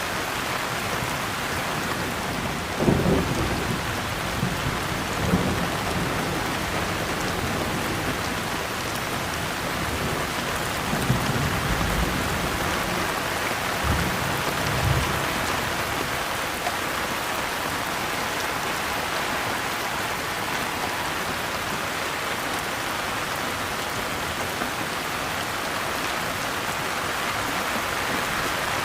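Steady rain falling, with several short low rumbles of thunder, the first about three seconds in and more around the middle.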